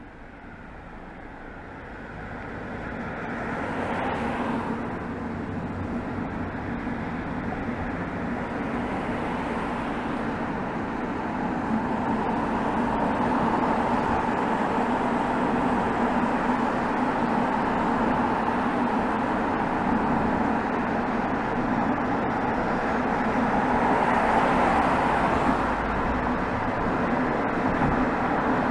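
Exhaust of a BMW B47 2.0-litre four-cylinder turbodiesel, recorded at the tailpipe while driving. It gets louder over the first four seconds as the car picks up speed, then runs steadily with tyre and road noise.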